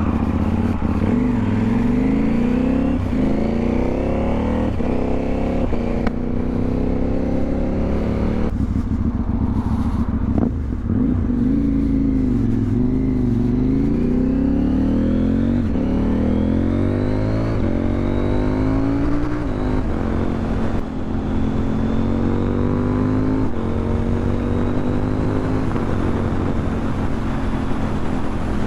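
KTM 790 Duke's parallel-twin engine accelerating under a rider, its pitch climbing repeatedly and dropping back at each gear change, then running more steadily near the end.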